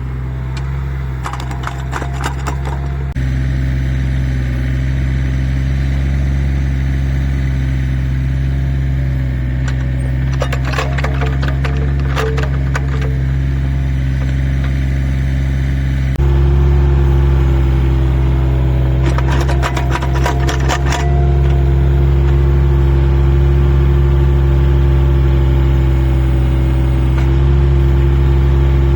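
Excavator engine running steadily under digging load, getting louder in a step about three seconds in and again about halfway through. Three spells of rapid rattling clatter, about a second in, about ten seconds in and about nineteen seconds in, as the bucket digs the trench.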